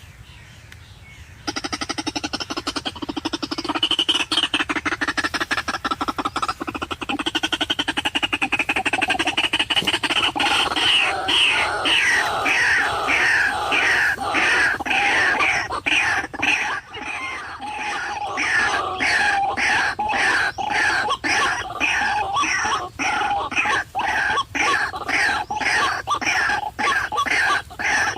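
White-breasted waterhen (ruak-ruak) calls start suddenly about a second and a half in, warbling at first, then settling into a rhythmic run of repeated falling notes, about two a second.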